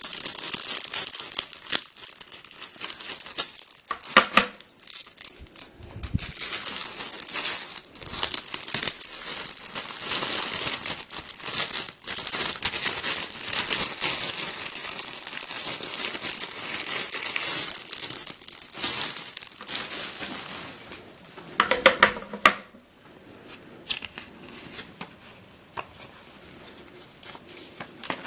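Plastic packaging crinkling and tearing as it is handled and pulled open, with many sharp crackles. It dies down to a few soft ticks about three quarters of the way through.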